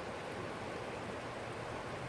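Small forest stream flowing: a steady rush of running water.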